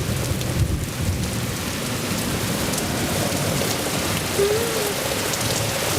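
Heavy rain pouring and splashing on hard surfaces in a steady hiss, with a low rumble of thunder in the first second or so.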